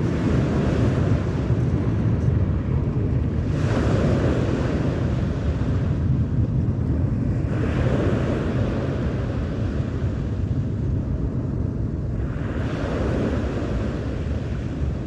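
Sea waves washing ashore three times, a few seconds apart, over a steady wind rumble on the microphone.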